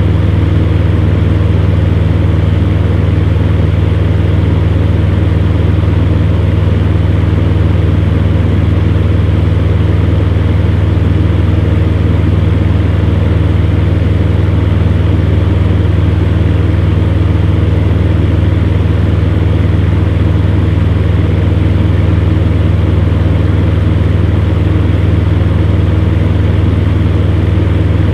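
Electric fan heater running: a steady low motor hum with an even rush of air from the fan.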